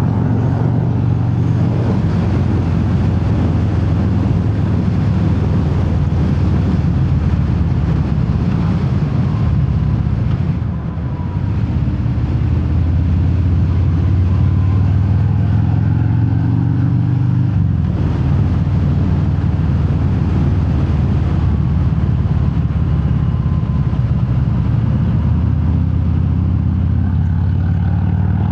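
Harley-Davidson Fat Bob's Milwaukee-Eight V-twin running under way through Vance & Hines Hi-Output slip-on mufflers without quiet inserts, heard from inside the rider's helmet. The engine note dips briefly about ten seconds in and shifts again around eighteen seconds in, as with throttle changes.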